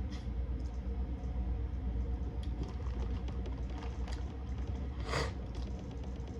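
Close-up eating sounds while working through a seafood boil: small clicks and mouth smacks over a steady low hum, with one brief, louder noisy sound about five seconds in.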